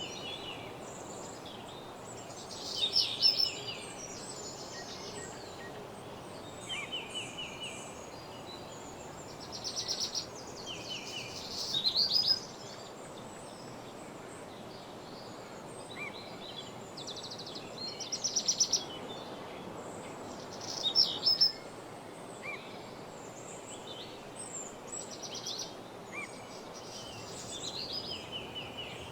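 Woodland birds singing: short, fast-trilled song phrases from several birds, one every few seconds, over a steady background hiss.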